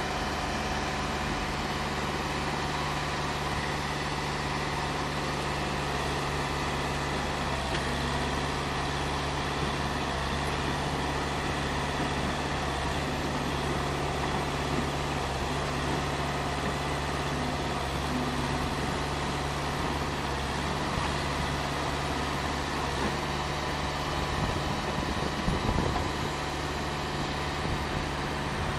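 Concrete pump running steadily with a constant hum, with a brief louder rough stretch about 25 seconds in.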